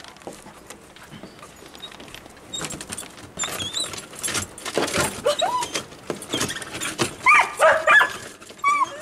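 A dog whining and yipping in short cries that bend up and down in pitch, several times from about three seconds in, with some knocking and rustling alongside.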